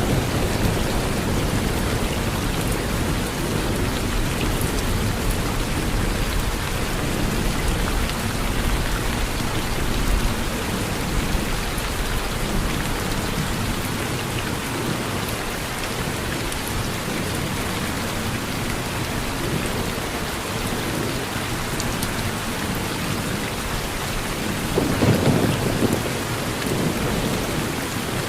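Steady rain falling on a porch, with low rolling thunder rumbling through the first half, easing, then swelling briefly near the end.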